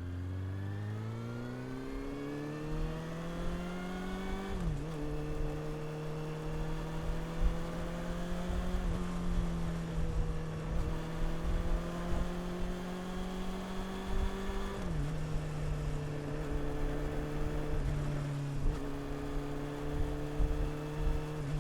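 Honda CB400 Super Four's inline-four engine and exhaust pulling under acceleration: the pitch rises for the first few seconds, drops at an upshift about five seconds in, holds steady while cruising, and drops again at a second shift about fifteen seconds in. A constant low rumble, typical of wind on the microphone, runs underneath.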